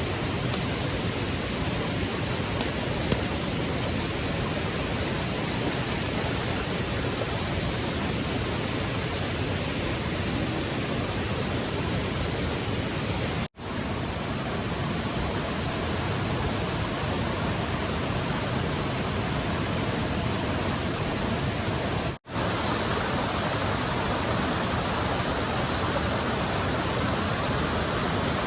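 Rushing stream water: a steady, even rush, cut off briefly twice.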